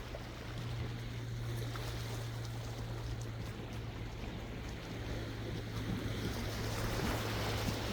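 Sea waves washing in, with a steady low hum underneath; the wash swells louder near the end.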